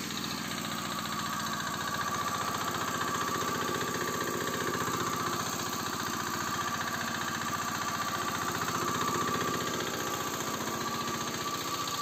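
Small single-cylinder Usha diesel engine driving a 2.5 kVA generator, running steadily with a fast, even knock of its firing strokes. It is loaded by a 1 hp submersible pump.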